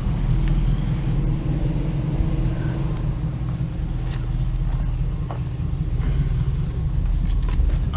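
V8 pickup truck engine idling steadily with a low, even rumble.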